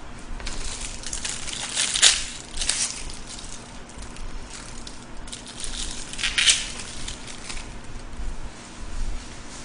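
Chewing food close to the microphone: crunchy, crackly mouth sounds in two spells, loudest about two seconds and about six and a half seconds in.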